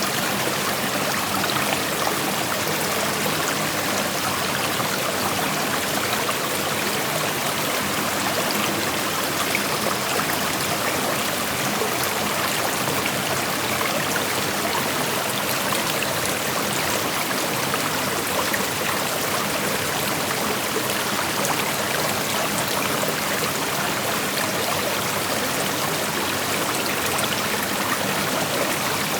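Creek water flowing and rushing over stones, a steady, even wash of noise.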